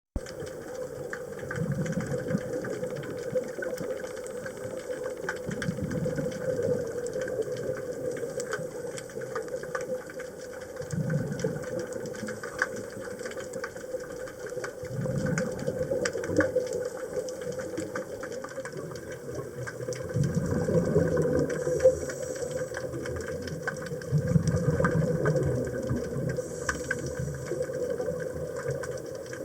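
Underwater recording of a scuba diver breathing through a regulator: a low bubbling rush of exhaled bubbles every four to five seconds over a steady hum, with constant faint crackling clicks and a couple of short hisses of inhalation.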